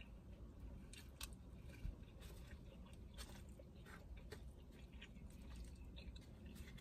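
Faint close-up chewing of a mouthful of chicken, rice and salad, with irregular small wet clicks and smacks of the mouth.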